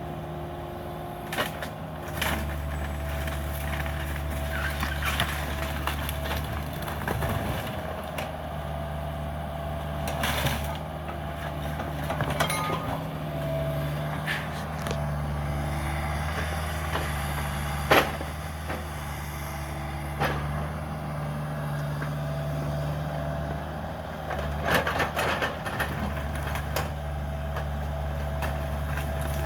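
Cat 305 mini excavator's diesel engine running steadily, with scattered knocks and cracks of demolition debris and one sharp bang about two thirds of the way through.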